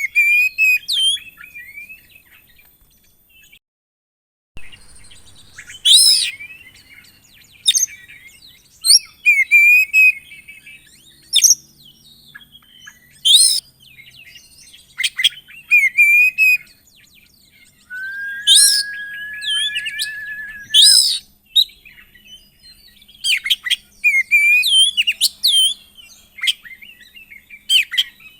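Oriental magpie-robin singing a varied song of sharp whistled phrases and chirps in separate bursts, with a steady buzzing trill lasting about three seconds past the middle. The sound drops out briefly a few seconds in.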